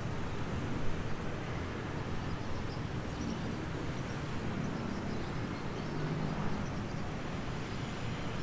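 Steady outdoor background noise with a low rumble and no clear single event.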